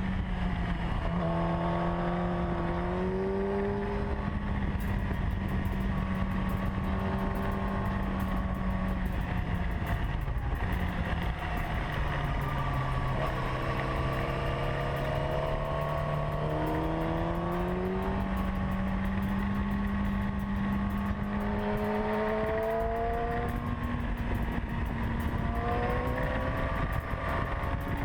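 Yamaha R6's inline-four engine heard from the fuel tank while riding, its pitch rising and falling with the throttle. Midway it drops lower for a few seconds, then climbs again.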